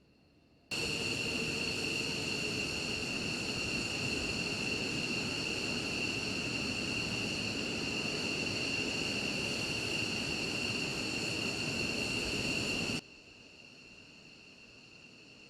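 Jet engine running steadily, a loud roar with a high whine over it, cut in abruptly just after the start and cut off abruptly near the end.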